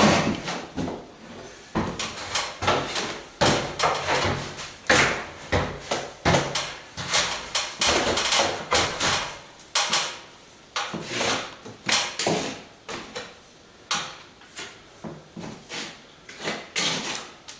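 A plastering tool scraping and knocking against a plaster wall in short, irregular strokes while a crack is filled.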